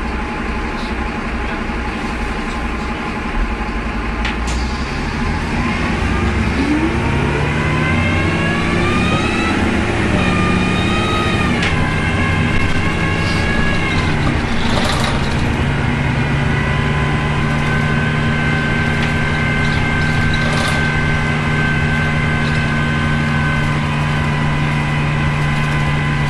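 Optare Tempo single-deck bus heard from inside while it pulls away, with a howl from the engine that rises in pitch. The pitch drops sharply about twelve seconds in as the bus changes gear, climbs again, then holds a steady howl while cruising. The howl is the unexplained weird engine noise this bus is known for.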